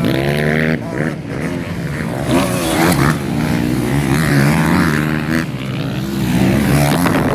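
Several motocross bikes racing, their engines revving up and down in pitch as they accelerate and shift.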